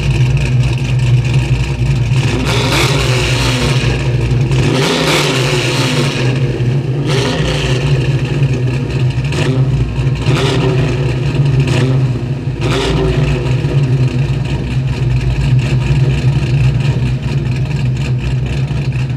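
1971 Camaro Z28's 511-cubic-inch big-block Chevy V8 idling with a deep, steady rumble, revved about five times in short blips that rise and fall back to idle.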